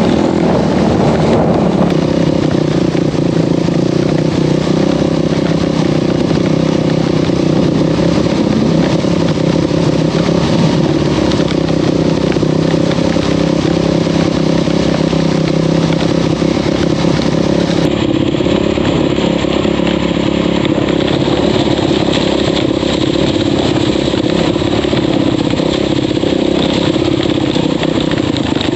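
Off-road vehicle engine running loudly and steadily while under way, its pitch holding nearly constant.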